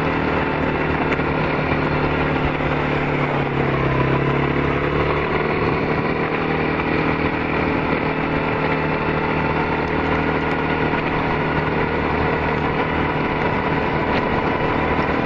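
Four-wheeler (ATV) engine running steadily, its pitch briefly dipping and rising again about four seconds in.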